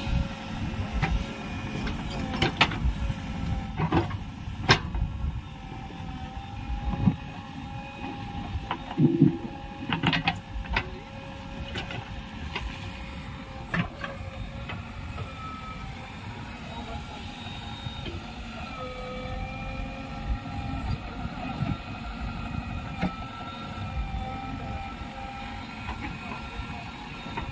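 JCB 3DX Plus backhoe loader's diesel engine running steadily while working. Sharp metallic knocks sound several times in the first half, typical of the arm and bucket at work.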